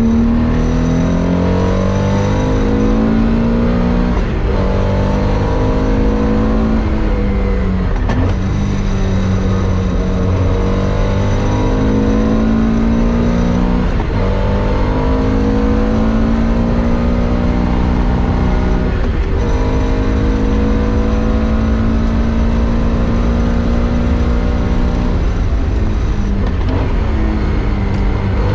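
Classic Porsche 2-litre race car engine at racing speed, climbing in pitch through each gear and falling away, with short breaks at the gear changes every few seconds. The falls and brief rises come from heel-and-toe downshifts, where the throttle is blipped while braking.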